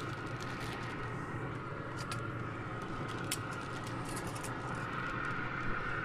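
Potatoes and onions frying in butter on a very hot grill surface, a steady sizzle with a few sharp pops or clicks about two and three seconds in.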